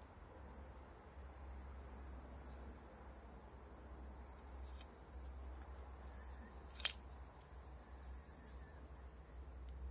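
A small bird chirping: short, high, falling calls, about three times. A single sharp metallic click near seven seconds in stands out as the loudest sound, over a faint low hum.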